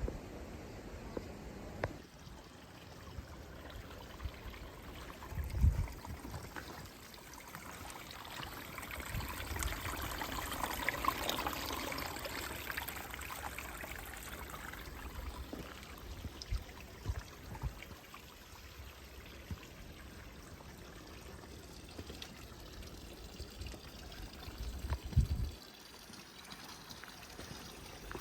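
Trickling water, louder for a few seconds in the middle of the stretch, with two short low thumps.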